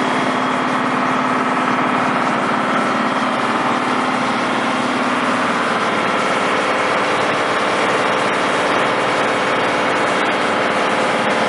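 Engine of heavy work machinery running steadily, its hum shifting in pitch a little past halfway.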